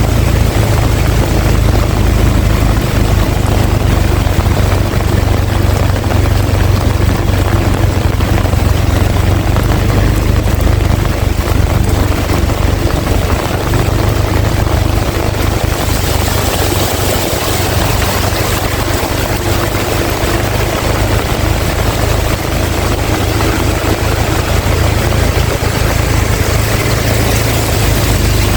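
Heavy rain pouring steadily, with strong wind buffeting the microphone into a deep rumble under the hiss. The high hiss of the rain grows brighter a little past halfway.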